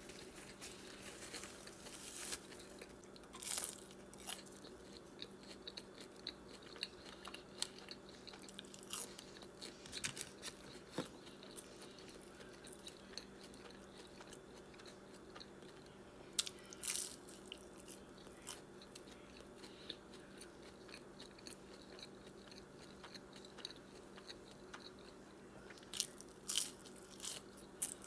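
Close-miked chewing and biting of McDonald's food, a Big Mac and then a sauce-dipped chicken nugget, with scattered small clicks and louder bites about 3 s in, around 17 s and near the end. A faint steady hum runs underneath.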